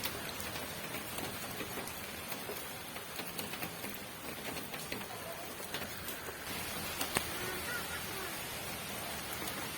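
Steady rain falling, an even hiss with scattered drops ticking and one sharper tick about seven seconds in.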